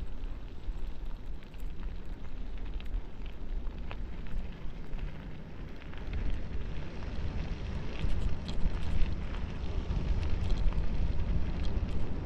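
Wind buffeting the microphone and bicycle tyres rolling over a dirt road on a fast descent, with scattered small clicks and ticks that grow busier and louder in the second half.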